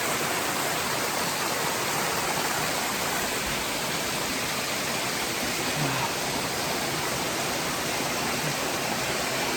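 Rushing water of a waterfall, a steady, even noise with no breaks.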